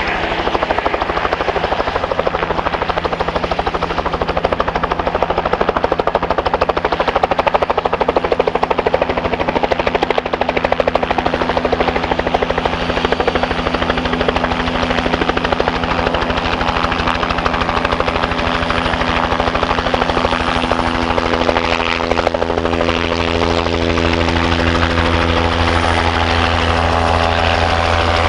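Helicopter running close by, its rotor and turbine making a loud, steady noise; in the last few seconds the sound settles into a more even hum.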